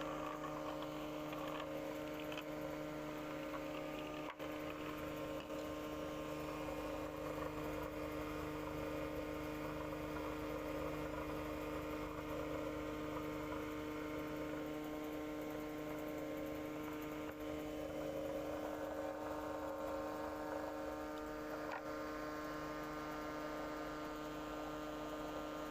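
Steady electrical hum with several fixed tones.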